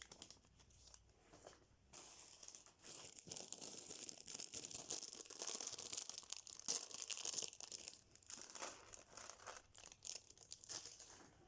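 LEGO set packaging being torn open and crinkled by hand: bursts of tearing and rustling that come and go, busiest in the middle.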